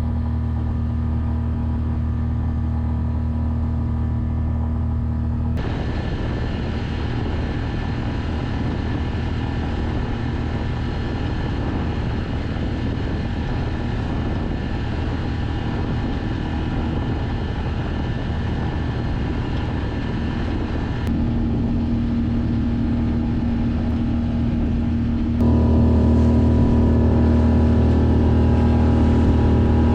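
A sailboat's auxiliary motor running steadily under way. The drone changes abruptly in tone and loudness about five seconds in, again about twenty-one seconds in, and is loudest from about twenty-five seconds in.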